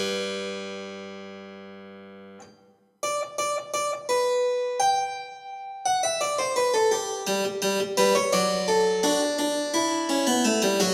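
Soft background piano music: a held chord that fades away, a brief pause, then single notes that build into a faster-moving melody from about halfway through.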